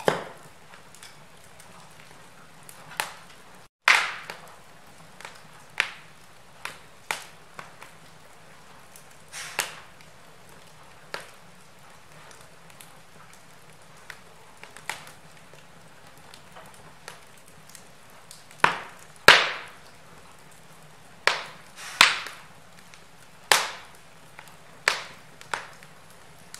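Wood fire crackling in a fireplace: irregular sharp pops and snaps over a faint steady hiss, with a run of louder pops in the second half.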